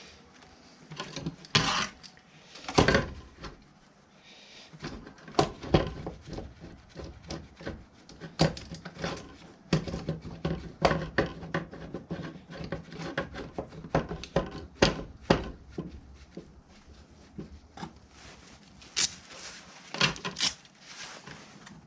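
Irregular knocks, clatters and scraping of hard objects being handled and set down, with a few louder hits scattered through.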